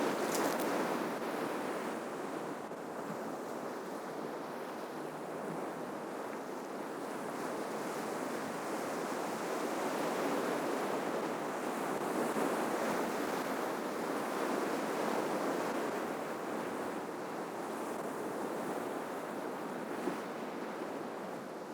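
Ocean surf washing onto a shoreline: a steady rush of breaking waves that swells and eases every few seconds.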